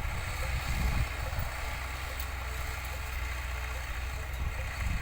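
Belarus 820 tractor's diesel engine running steadily under load while transplanting corn, heard as a continuous low drone with an uneven low rumble over it.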